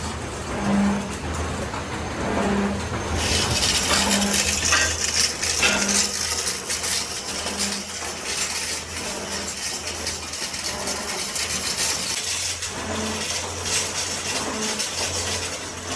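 Workshop machining noise: a machine running with scattered metal-on-metal clinks. A short low tone repeats about once a second in the first half, and a steady hiss comes in about three seconds in.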